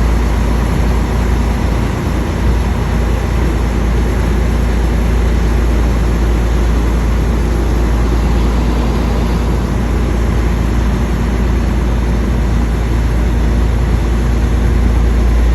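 Steady, loud low rumble of a running engine, unchanging throughout.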